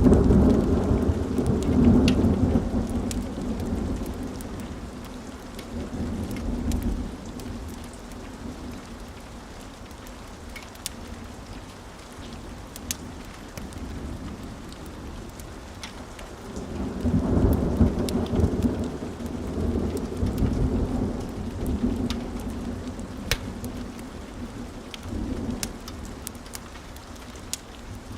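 Thunderstorm: steady rain with two long rolls of thunder, the first at the start fading over several seconds, the second building a little past the middle and rumbling on for several seconds. Scattered sharp ticks sound throughout.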